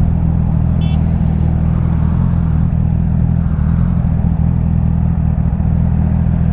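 Honda CBR1000RR sport bike's inline-four engine running steadily under way at an even speed, with wind rush over it. A brief high tone sounds about a second in.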